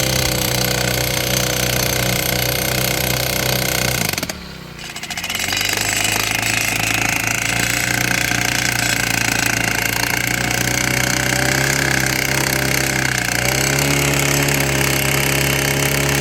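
Petrol-powered post driver running loud and hammering, its small engine at high revs. It eases off briefly about four seconds in, picks up again, and revs higher near the end.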